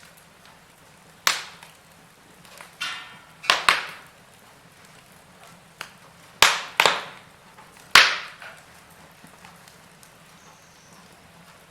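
Wood fire burning in a fireplace, crackling: about eight sharp pops and snaps at irregular intervals, the loudest a little after halfway and about eight seconds in, over a faint steady hiss of the flames.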